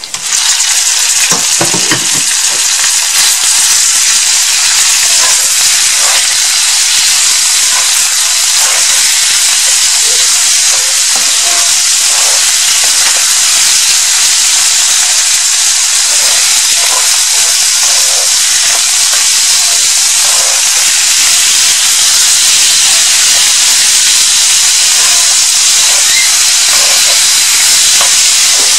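Raw chicken pieces sizzling loudly in hot oil in a cast-iron skillet: a steady frying hiss that starts sharply as the meat goes in. Occasional light scrapes and taps of a wooden spoon stirring.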